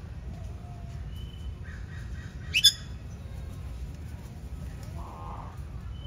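Birds calling: one short, sharp call that sweeps upward in pitch about two and a half seconds in stands out loudest, with fainter short calls before and after it, over steady low background noise.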